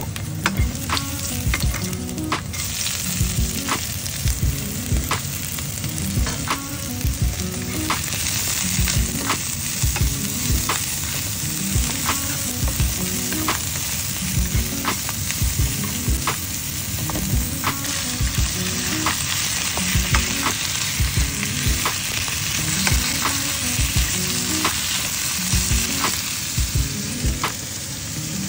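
Ginger, garlic and onions sizzling in hot oil in a nonstick wok, stirred with a wooden spatula that knocks and scrapes against the pan many times. The sizzle gets louder about two seconds in.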